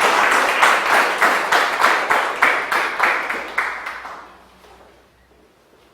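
Audience applause that thins into a few separate claps and dies away about four seconds in, leaving quiet room tone.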